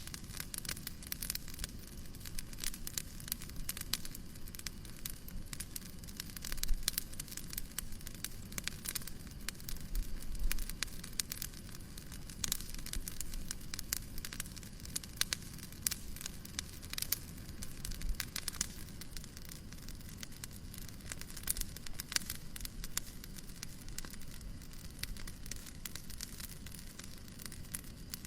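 Fireplace fire crackling steadily, with frequent small snaps and pops over a low hiss and a few soft low thumps.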